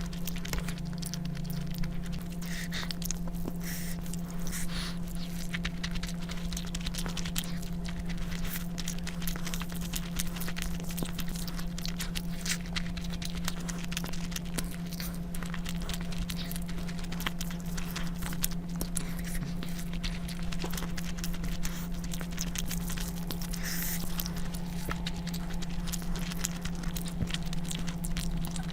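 Close-miked eating of rice and curry: many small wet clicks and smacks of chewing, over a steady low hum.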